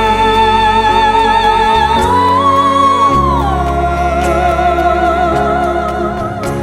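A song with a singer holding long notes with vibrato over a backing band: the note slides up about two seconds in, then falls to a lower held note about a second later.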